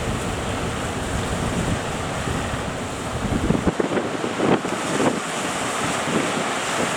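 Strong wind buffeting the microphone over the wash of surf at a river mouth. A low rumble fills the first half, then gives way to irregular gusty buffets.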